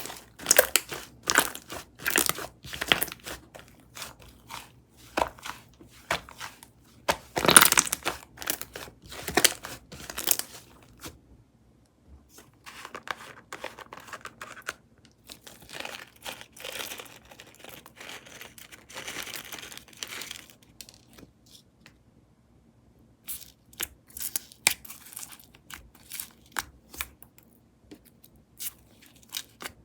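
Hands squishing and stretching strawberry cookie whipped-cream slime, making sticky crackling clicks and pops. The clicking is dense and sharp at first, turns to a softer crackle from about 12 to 21 seconds in, pauses briefly, then comes back as scattered clicks.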